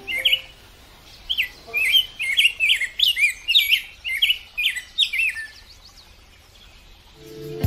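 A small bird chirping over and over in short, quick calls, about three a second, stopping about five and a half seconds in. Music starts to come in near the end.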